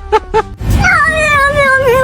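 A cat giving one long, drawn-out meow that starts about half a second in, its pitch wavering and then falling.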